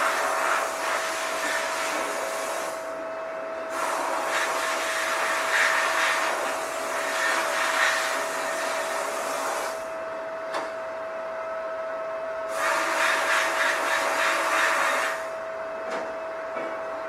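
Sandblaster's air blast hissing in three long bursts, switched on and off, over a steady whine from the running machinery.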